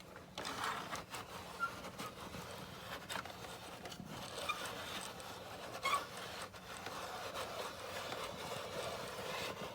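Plastic toy cable car being moved back down its line by hand: a continuous rubbing, scraping sound of plastic handling with scattered small clicks.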